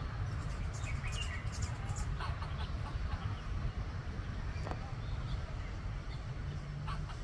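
Steady low outdoor rumble, with scattered short bird chirps and clicks above it.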